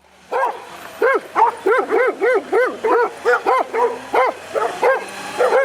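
A dog barking rapidly and over and over, about three short barks a second.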